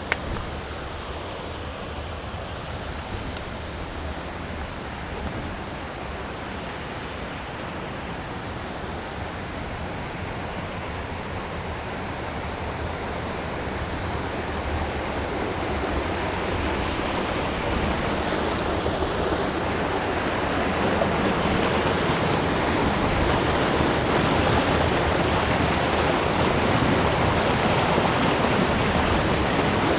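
River water rushing over a weir, a steady roar that grows louder for several seconds in the middle and then holds.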